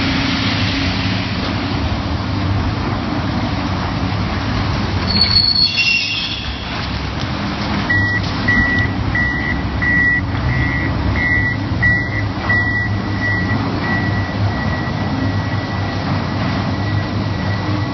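Heavy vehicle engine running steadily, with a brief high squeal about five seconds in and a run of about eight evenly spaced high beeps from about eight seconds in.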